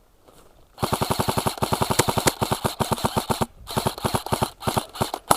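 Airsoft electric rifle, the Specna Arms SA-B05, firing on full auto: one long burst of about two and a half seconds, then three shorter bursts, each a fast even run of shots from the cycling gearbox.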